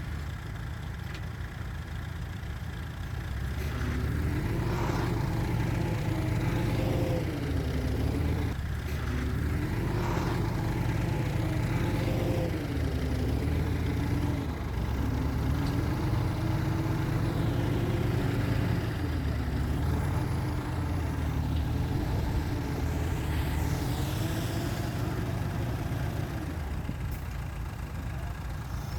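Heavy diesel engine of earthmoving machinery running with a deep rumble, its pitch rising and falling repeatedly as it works under changing load. It grows louder about four seconds in.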